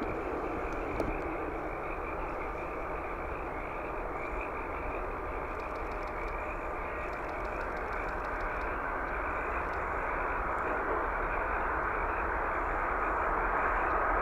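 Jet airliner on approach: a steady engine rush that grows louder toward the end, with a faint whine coming up above it.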